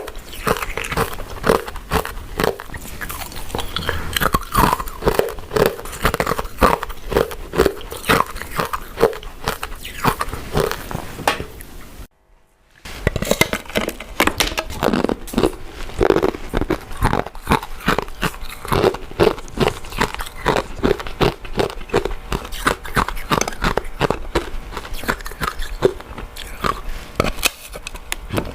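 Close-miked chewing of soft, sticky glutinous rice cakes and mochi: wet, smacking mouth sounds and quick clicks, with a brief silence about twelve seconds in.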